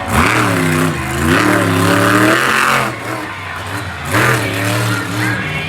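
Monster truck engine revving hard, its pitch rising and falling over and over as the throttle is blipped.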